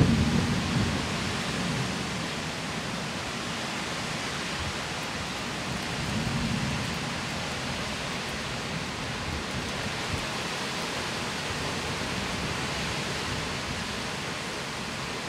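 Strong storm wind with a steady hiss, swelling into low rumbling gusts at the start and again about six seconds in.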